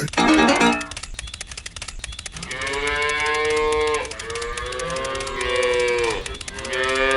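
Cow mooing: two long, drawn-out moos, with a third starting near the end.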